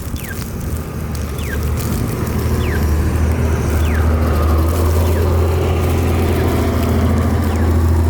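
Steady low vehicle engine rumble that grows louder, with a short falling chirp repeating about once a second.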